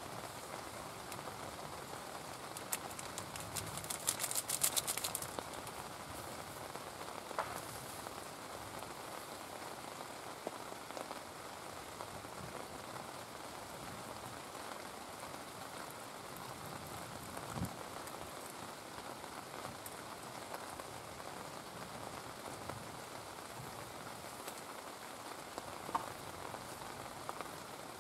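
Steady rain falling, with a few light knocks of metal cookware being handled.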